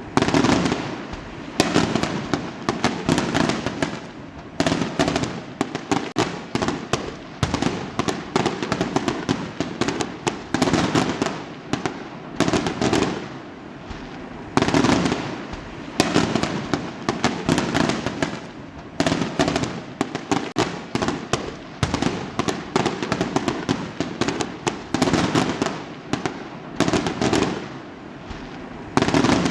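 Fireworks going off in a continuous barrage: sharp bangs and crackling clusters following one another every second or two, with hardly a pause.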